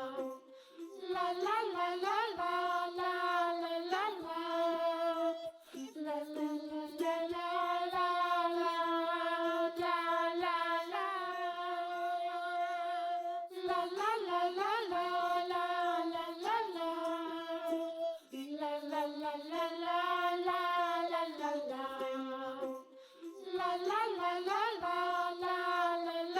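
Background children's song: a high, childlike voice singing a wordless 'la la la' melody in held notes, phrase after phrase with short breaks between.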